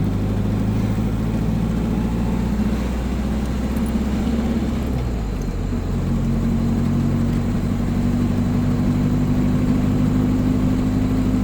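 An old car's engine and road noise heard from inside the cabin while driving at steady speed. The engine note changes about halfway through and then holds steady.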